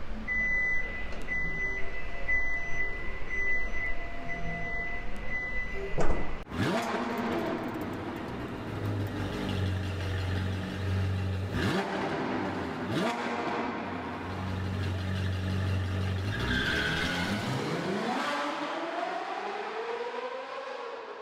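Repeated electronic beeping at first. Then a sudden loud hit and car engine sounds: several revs and vehicles passing, their pitch sweeping down and up.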